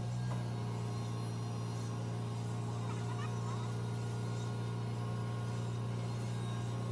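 A vehicle engine idling steadily as a low, even hum. A few faint chirps come through about three seconds in.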